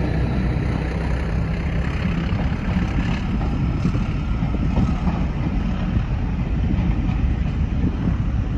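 A train of passenger carriages rolling past on the track with a steady rumble, hauled by a Class 14 diesel-hydraulic locomotive whose engine note fades in the first couple of seconds as it draws away.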